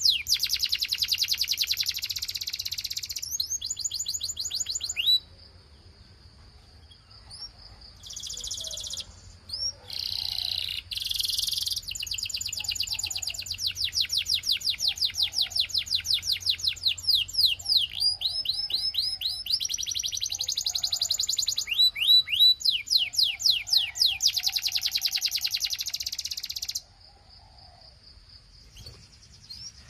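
Belgian canary singing in long, fast trills of repeated down-sweeping notes, mixed with buzzy rolls. The phrases run for several seconds, with a pause about five seconds in and another near the end.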